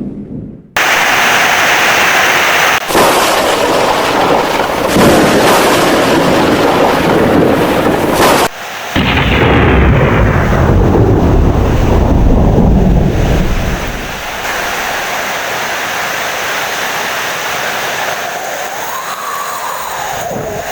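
Heavy rain with loud, rolling thunder that is deepest and strongest in the middle, then easing to a steady rain hiss for the last few seconds. The sound cuts out briefly at the very start and again about eight seconds in.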